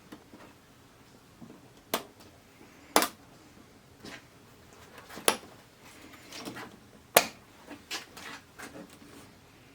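Sharp, irregular clicks and knocks of hard parts being handled and set down while an LCD TV is taken apart, about five distinct strikes with quieter rustling between.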